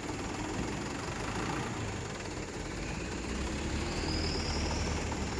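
Diesel truck engine running steadily, a low drone that grows a little stronger about three and a half seconds in.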